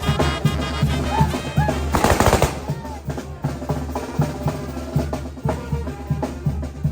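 Mexican brass wind band playing with a steady drum beat, and about two seconds in a rapid half-second volley of firecracker bangs from a torito de trueno firework.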